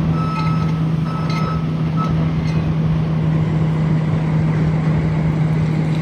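Construction vehicle's engine running steadily with its reversing alarm beeping. The beeping stops about two seconds in while the engine carries on.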